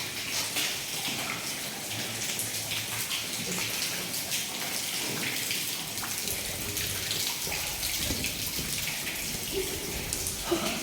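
Running water trickling and splashing: a steady hiss with many small splashes.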